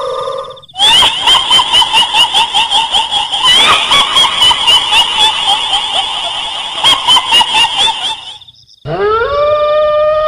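High-pitched, rapidly pulsing ghostly cackle, the kuntilanak laugh of Indonesian horror sound effects, running for about seven seconds. After a brief break near the end, a long howl rises and then holds steady.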